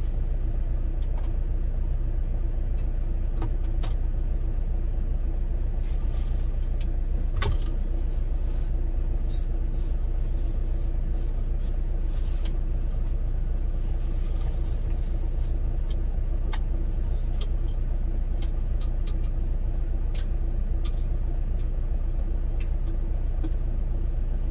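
Steady low rumble of a semi-truck's diesel engine idling, heard inside the cab, with a faint steady hum above it and scattered small clicks and knocks.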